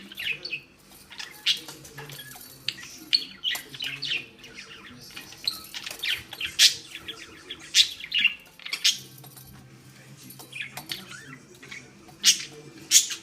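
Budgerigar chirping and chattering in rapid short calls, with a few louder, sharp notes.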